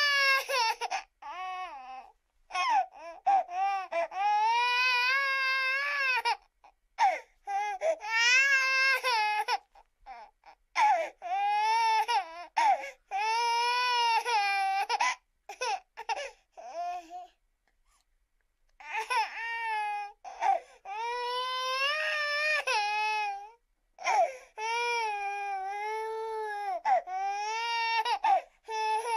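Infant crying: a string of high, wavering wails, each a second or two long with short breaths between, and a longer pause a little past the middle.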